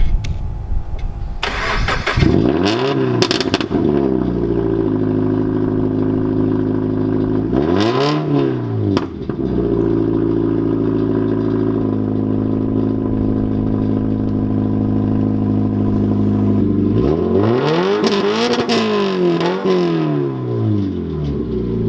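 Subaru BRZ's flat-four boxer engine starting about a second and a half in, then idling loud through an open exhaust, with both rear mufflers removed so it exits straight from the Y-pipe. It is blipped up and back down a few times: a couple of revs early, one around eight seconds, and a longer series of revs near the end.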